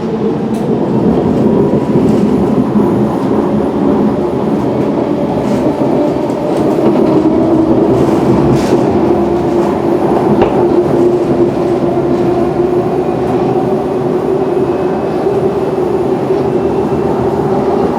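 Siemens C651 metro train running on the line: steady wheel and track rumble with light clicks from the rails, under a motor whine that drops slightly in pitch in the first few seconds and then holds steady.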